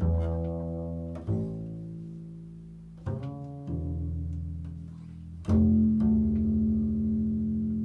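Slow improvised music of low plucked string notes: about five notes, one every second or two. Each rings on and fades slowly, and the last, struck about five and a half seconds in, sustains to the end.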